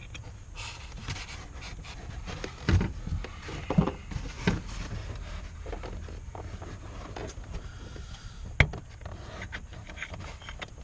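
Handling noises of hands working on car wiring: rubbing and rustling with scattered knocks, and one sharp click about three quarters of the way through.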